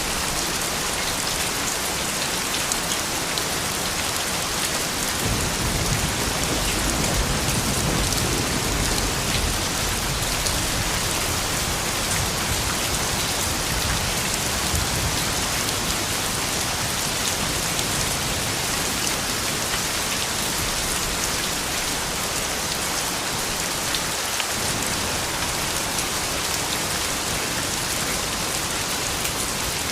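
Steady rain falling, with individual close drops heard as small ticks over the even hiss. A low rumble swells briefly from about five to twelve seconds in.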